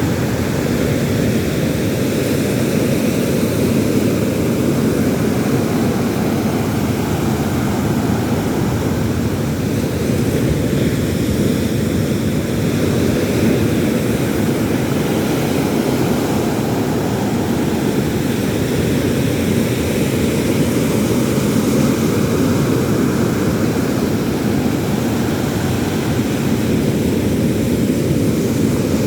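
Steady low roar of sea surf, holding an even level throughout with no separate breaking waves standing out.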